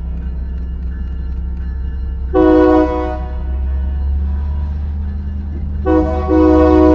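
Locomotive horn sounding over the steady low rumble of the locomotive: one blast about two and a half seconds in, then a short toot and a longer blast near the end. With the blast just before, the pattern fits the long-long-short-long signal sounded for a grade crossing.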